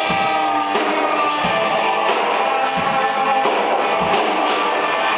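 Live rock band playing: electric guitar and drum kit with cymbal hits at a steady beat.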